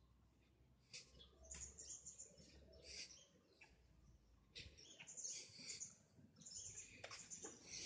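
Faint birdsong: many short, high chirps and twitters from small birds, coming in bursts and busiest in the second half.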